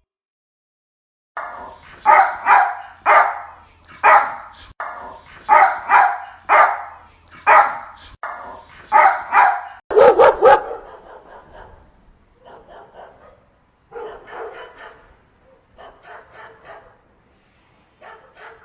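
Dogs barking: a quick run of loud, sharp barks about a dozen strong, then quieter bursts of barking through the second half.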